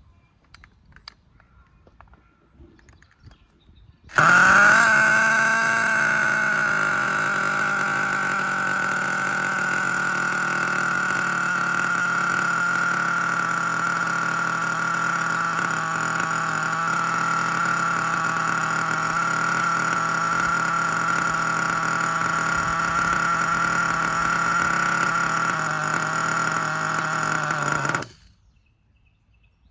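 Force R36 5.9 cc nitro engine in a Team Associated MGT RC truck catching about four seconds in and running steadily for some twenty-four seconds, then cutting off suddenly near the end. It is running without an air filter.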